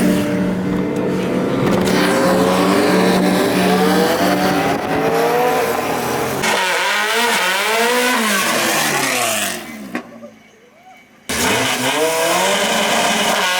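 Car engines revving hard and accelerating, the pitch climbing and then sweeping up and down repeatedly as they rev and shift. The sound cuts out sharply for about a second near the end, then the revving resumes.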